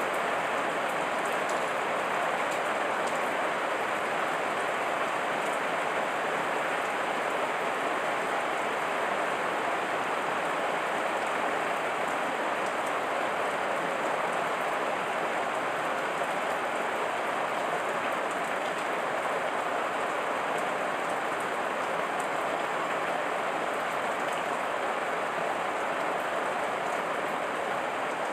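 Heavy rain falling steadily, an even hiss of drops on leaves and other surfaces with fine pattering.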